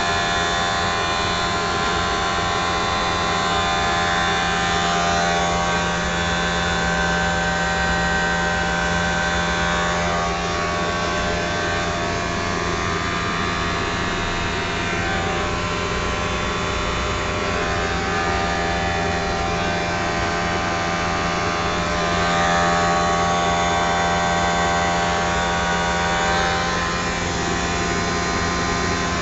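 Triangle blower motor running steadily: a constant hum with several steady whining tones above it.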